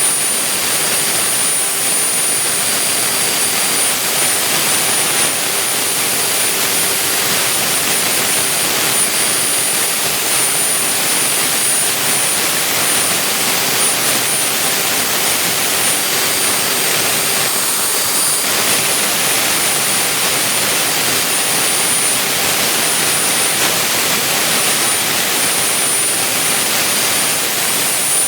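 CNC milling machine running steadily: an unbroken hiss with a constant high whine and a low steady hum, no pauses or changes.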